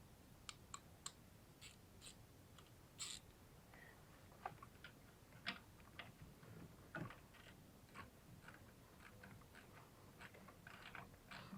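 Near silence broken by faint, irregular clicks and taps, a few scattered every second or so.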